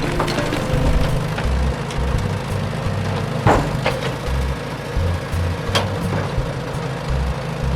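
Cartoon soundtrack of a vehicle engine running under background music, with a few sharp knocks about three and a half seconds in, just after, and near six seconds.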